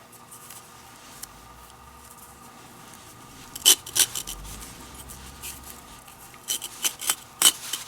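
Hands working leather lace through a baseball glove: soft rubbing and scraping, with a couple of sharp clicks about halfway through and a quick run of clicks near the end.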